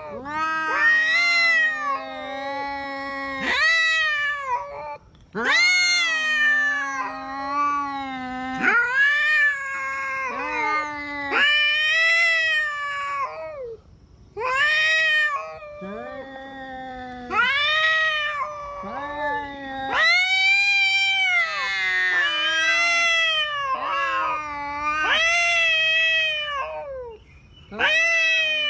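Two tomcats caterwauling at each other in a fight standoff. Long rising-and-falling yowls, one low-pitched and one higher, overlap and trade back and forth with short breaks.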